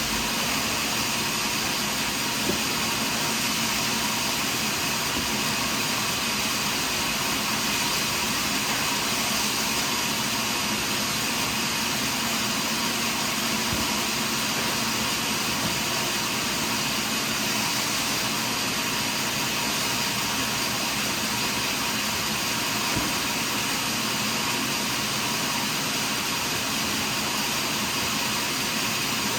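Portable sawmill running steadily as it saws through a large pine log, a constant, unbroken machine noise.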